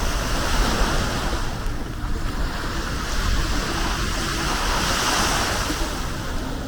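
Sea waves breaking and washing up on a sandy beach, surging about a second in and again about five seconds in, with wind rumbling on the microphone.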